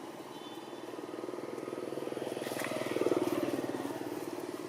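A small engine running with a fast, even pulse, growing louder to a peak about three seconds in and then fading.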